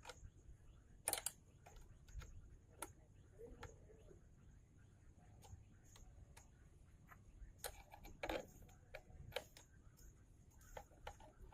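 Scattered, irregular light clicks and taps over faint background noise, as of hand work on a motorbike. The sharpest click comes about a second in, and a few more come close together a little past the middle.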